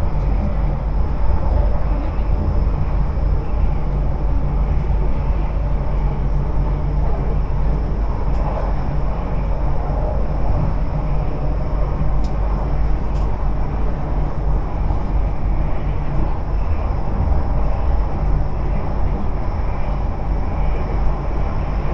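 Airport Rail Link electric train running, heard from inside the carriage: a steady low rumble with a faint, steady high-pitched whine over it.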